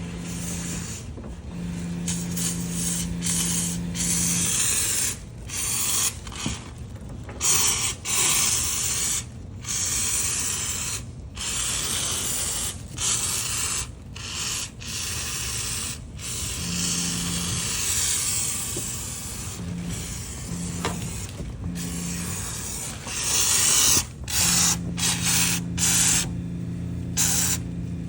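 Foaming apparatus spraying foam through its wand: a loud hiss that starts and stops over and over in short bursts. A steady low hum runs under it at the start and again near the end.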